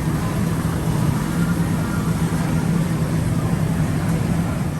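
Steady hum of a running engine, with one constant low tone over a rough rumble that never changes.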